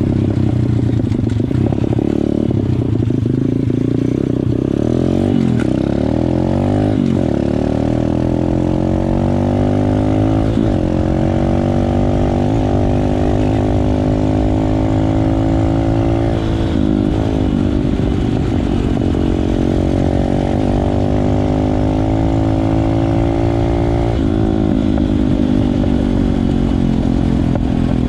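150cc Motoworks Bigfoot pit bike's single-cylinder four-stroke engine at full throttle on a top speed run. The revs climb through the gears, dipping briefly at each of several shifts.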